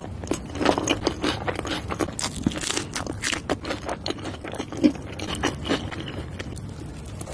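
Close-miked chewing and biting of a burger: a dense run of short mouth clicks and smacks, with one louder one about five seconds in.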